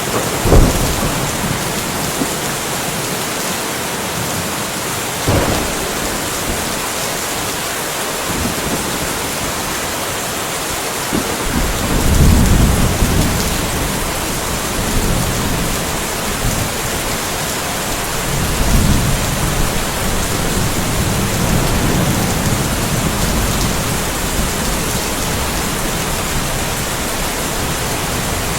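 Steady rain falling, with thunder: a sharp, loud crack about half a second in and a smaller one around five seconds, then long low rumbles rolling in about twelve seconds in and again near nineteen seconds.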